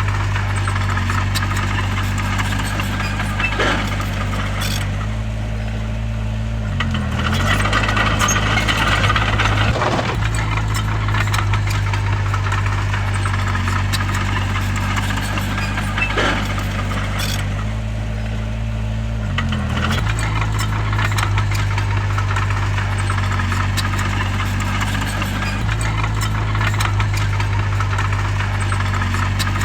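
Heavy diesel bulldozer engine running steadily under working load. Its pitch sags briefly twice as the load comes on, with a rattling clatter in the middle and a few sharp clanks.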